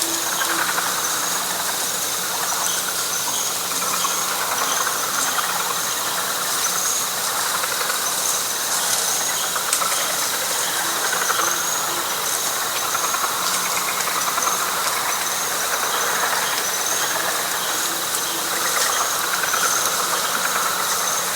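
Night chorus of frogs and insects in a wet pine flatwoods: a dense chorus that swells and fades every few seconds, with rows of short high chirps and a steady high insect whine over it.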